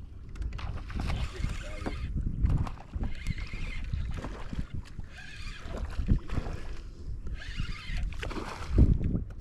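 Water sloshing and splashing around a small skiff in the shallows, with irregular knocks against the boat and a heavier thump near the end.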